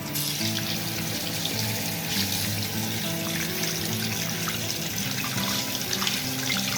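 Water running steadily from a tap into a sink, switched on suddenly at the start. Background music plays underneath.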